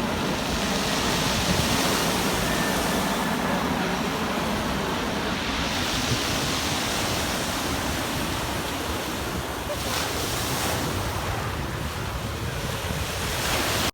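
Steady surf washing on a beach, with wind rumbling on the microphone.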